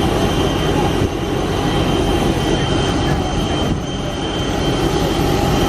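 Jet airliner heard from inside the cabin: loud, steady engine and air noise with a thin high steady whine, cutting off abruptly at the end.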